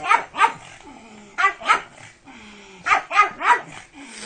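A pug barking in short quick runs: two barks, two more about a second later, then three, with softer low grumbling sounds in between.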